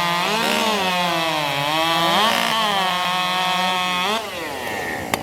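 Two-stroke racing chainsaw at full throttle cutting through a log, its pitch sagging and recovering as the chain bites. About four seconds in, the revs drop sharply and the saw winds down.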